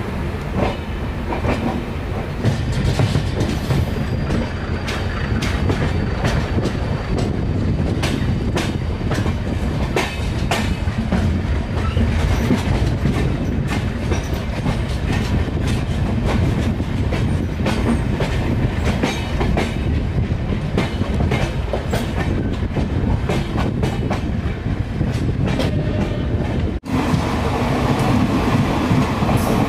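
Moving express train heard from an open coach doorway: a steady rumble of wheels on rail with frequent sharp clicks as the wheels cross rail joints. Near the end, after a brief break in the sound, a train passing on the next track adds a fuller, louder rush.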